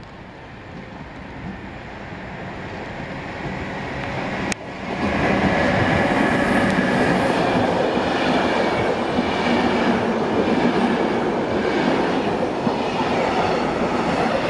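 Passenger train approaching, steadily louder, then its coaches rolling past close by from about five seconds in, loud and steady. A single sharp click comes just before the coaches reach the microphone.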